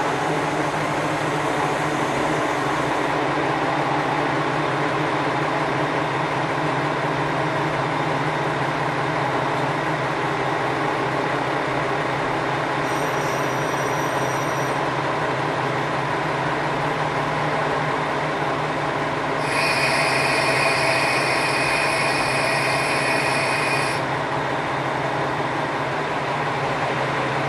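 KiHa 120 diesel railcar running, its diesel engine droning steadily. A high-pitched squeal from the wheels rings out briefly about halfway through, and a longer, stronger one comes a few seconds later.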